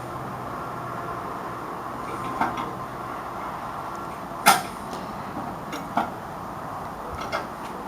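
A few sharp knocks and clanks, the loudest about halfway through, over a steady engine drone.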